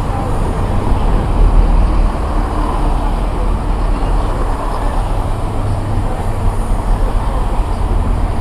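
A train running at the platform, giving a loud, steady low rumble.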